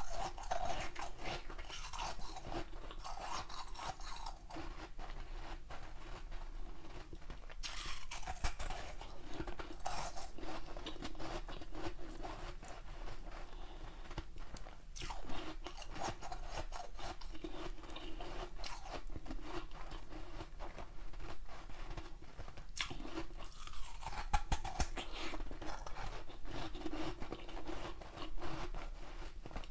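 A person chewing and crunching ice close to the microphone: a steady run of cracks and crackles as the ice breaks between the teeth.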